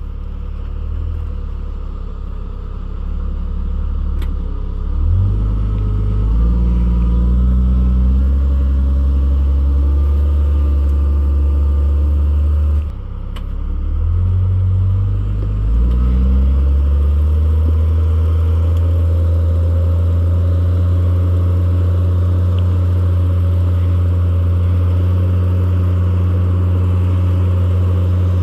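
Off-road rock-crawling vehicle's engine revved up and held at high revs under load. It eases off once about halfway, then revs up again and holds steady until it drops near the end.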